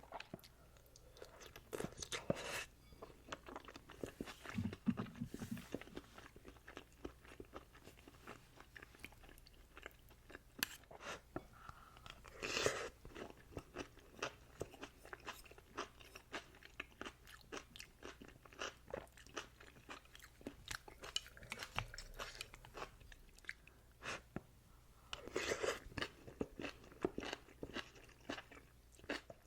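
Close-miked eating sounds of Shin ramyun noodles and eggs: wet chewing and many small mouth clicks, with a few louder noisy bursts, one about twelve seconds in and a longer stretch near the end.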